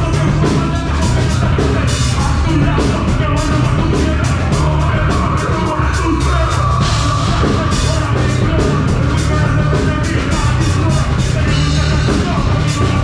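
Live metalcore band playing loud and without a break: distorted guitars, bass and a drum kit hit rapidly, with shouted vocals.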